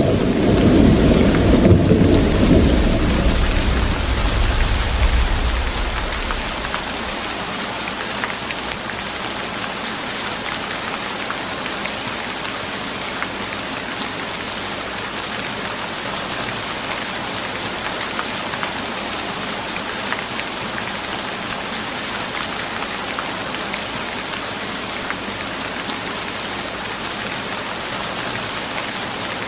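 Steady rain falling, an even hiss with faint scattered drops. A deep low rumble fills the first few seconds and fades away about six seconds in.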